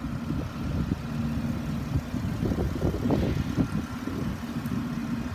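2014 Dodge Grand Caravan SE's 3.6-litre V6 engine idling steadily.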